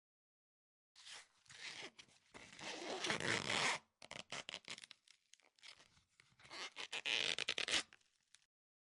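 Adhesive vinyl wrap being smoothed onto a cabinet panel with a silicone squeegee: two longer stretches of zipper-like scraping with short crackles between them.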